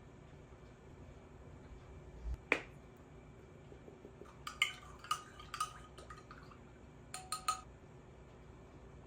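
Kitchenware clinking: a dull knock and a click, then a run of short ringing clinks and three quick clinks near the end.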